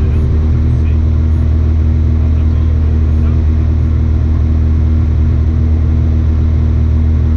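Rally car engine running at steady revs under heavy low rumble, its pitch holding level with no gear changes or lifts.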